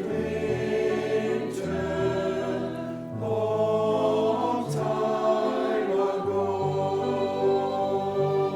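Choir singing a slow hymn with sustained chords over a bass line that moves about once a second.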